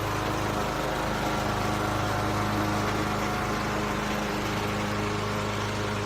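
A steady mechanical hum with a low drone and several steady higher tones, like a motor or engine running at constant speed.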